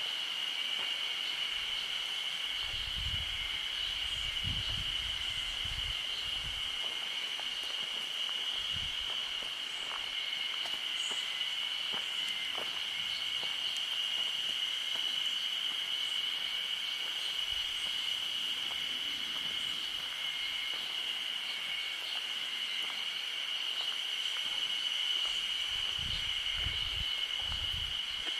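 Insects singing steadily in a continuous high-pitched drone. A few low rumbles come and go, a few seconds in and again near the end.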